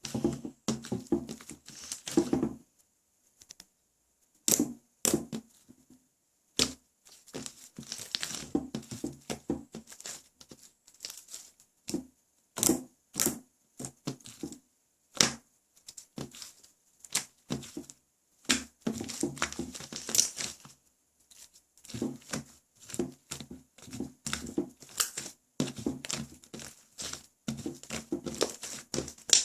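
White clay-mixed slime being squished and stretched by hand, giving runs of sharp clicks, crackles and small pops with short pauses between them.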